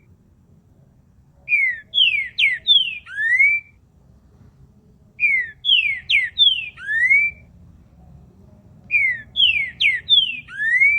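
A songbird singing the same short whistled phrase three times, each a quick run of falling notes ending on a rising whistle.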